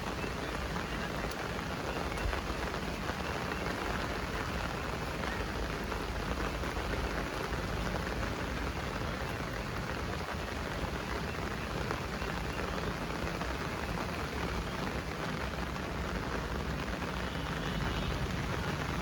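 Heavy rain falling steadily on surfaces, a constant even hiss without let-up.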